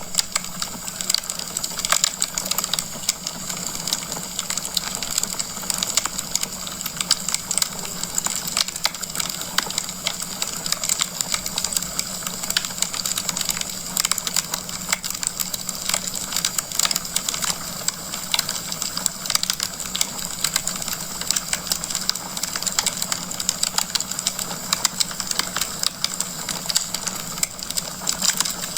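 Wood fire burning in a fireplace, logs crackling with a dense, irregular run of small pops and snaps over a steady hiss.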